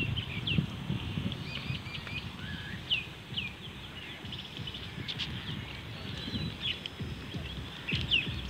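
Birds chirping: many short, high, falling chirps, with a low irregular rumble underneath.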